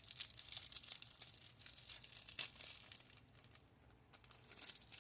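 Plastic packaging crinkling and rustling as it is handled to get tiny dried flowers out, in a run of dry crackles that eases briefly in the middle.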